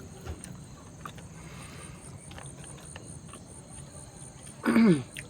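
Crickets chirping steadily in the background, a high, even pulsing, with a few faint clicks. Near the end comes a short, loud pitched sound that falls in pitch.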